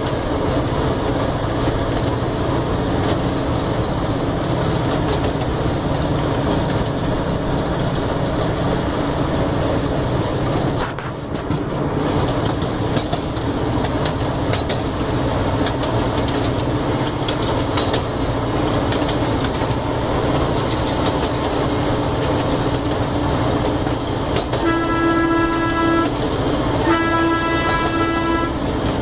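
Ride-on train rolling steadily along the track, heard from aboard the cars, with two horn blasts near the end, each about a second and a half long.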